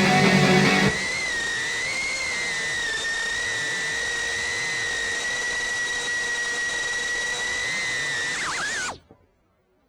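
Music for about the first second, then the GEPRC TinyGo 4K micro FPV drone's motors and propellers whining at a steady high pitch, heard through its onboard camera. Near the end the pitch wavers and falls quickly, and the whine cuts off about nine seconds in as the motors spin down at the end of the flight.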